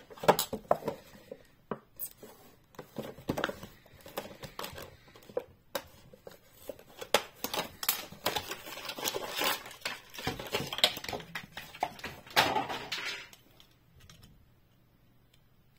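A toy's plastic blister pack and card backing being handled and pulled open: a busy run of sharp plastic clicks, crinkling and tearing, thickest in the middle and stopping about two seconds before the end.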